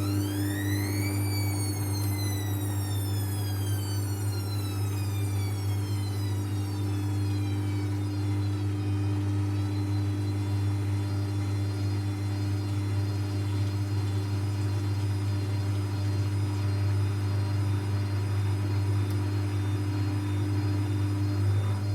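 Techwood WB 91042I washing machine running: the motor whine rises quickly in the first second, then falls slowly over about eight seconds as the drum winds down, over a steady low hum. A new rising whine begins right at the end.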